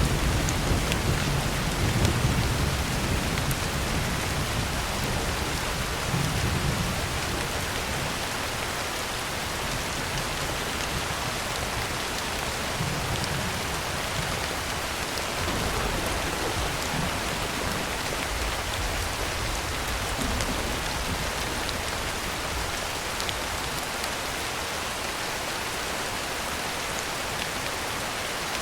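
Heavy rain drumming steadily on a tin roof, with low thunder rumbling that fades over the first few seconds and comes back faintly a few times later.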